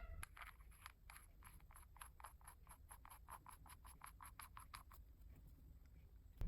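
Faint, even ticking from a hand drill's gears as it is cranked, about five ticks a second, stopping about five seconds in.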